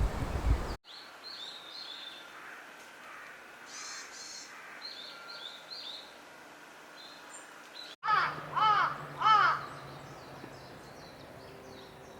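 Wild birds calling: faint high chirps at first, then about eight seconds in, three loud calls in quick succession, each rising and then falling in pitch.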